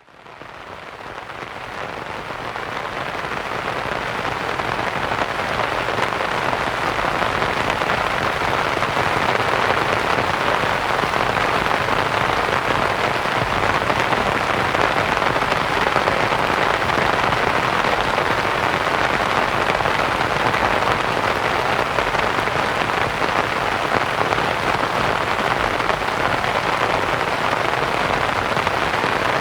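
Rain pattering on a canvas tent, mixed with steady white noise, fading in over the first five seconds or so and then holding steady.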